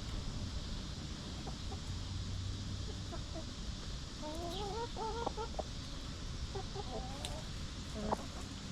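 Hens clucking: a run of wavering, rising-and-falling clucks about halfway through and a shorter one a couple of seconds later, over a steady low outdoor background.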